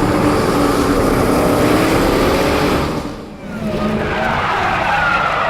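A muscle car's V8 engine running hard under acceleration, with tyre squeal. The sound drops briefly about three seconds in, and a thin high squeal follows.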